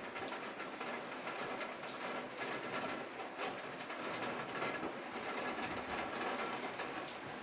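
Rain falling steadily in windy weather: an even hiss with many small, irregular ticks of drops.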